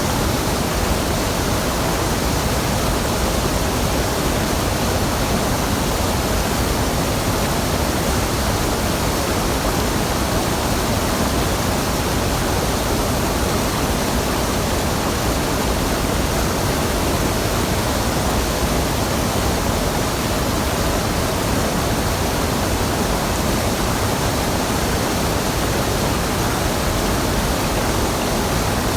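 Waterfall on a mountain stream: a steady, unbroken rush of falling and running water.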